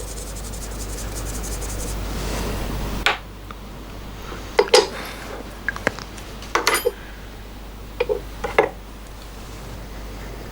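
A hand-held drill runs for about three seconds, drilling through the motor-mount block, and stops suddenly. Several sharp metallic clinks and knocks follow as tools and the part are handled.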